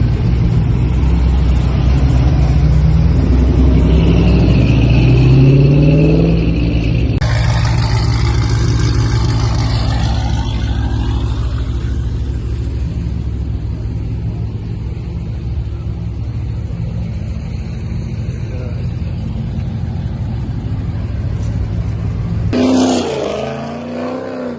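Car engine revving in rising pulls a few seconds in, then running loud and steady.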